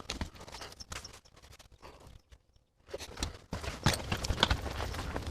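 Irregular knocks and clicks, like tools and parts being handled on a workbench, with a short near-quiet pause about halfway through and denser clatter after it.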